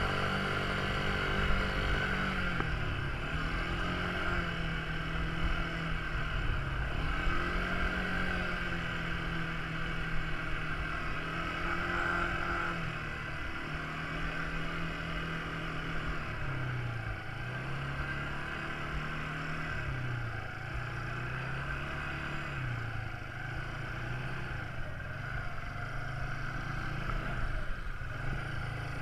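Quad bike engine running, its pitch dropping and rising again over and over as the throttle is eased off and reopened.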